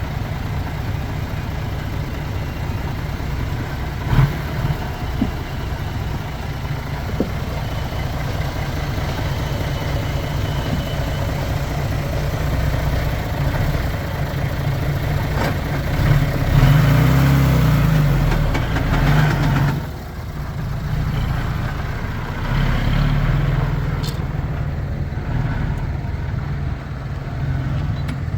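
Diesel engine of heavy earthmoving machinery running steadily, working harder for a few seconds about halfway through and again a little later. A couple of sharp knocks come about four seconds in.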